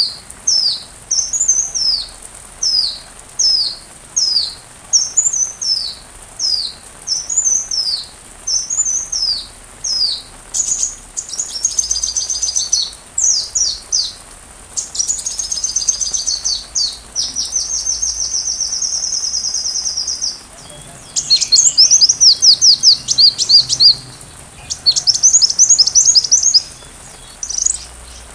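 Sunbird song: a run of quick, high, down-slurred whistles about one and a half a second. Partway through it breaks into fast trills and a long, steady, buzzy trill, then rapid chattering trills near the end.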